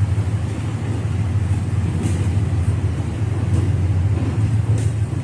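Rushing floodwater: a steady low rumble with a hiss over it.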